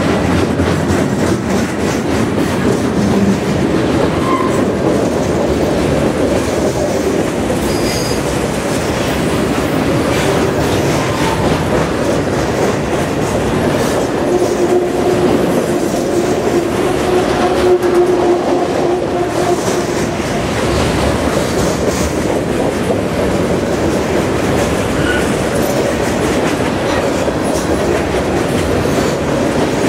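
Freight cars of a long mixed train, gondolas and covered grain hoppers, rolling steadily past close by: the continuous rumble and clatter of steel wheels on rail. About halfway through there is a faint, held wheel squeal for several seconds.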